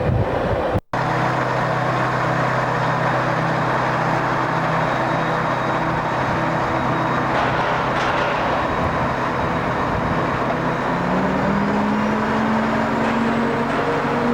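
A vehicle's engine running steadily, then rising in pitch from about eleven seconds in as it pulls away or accelerates. The sound cuts out briefly about a second in.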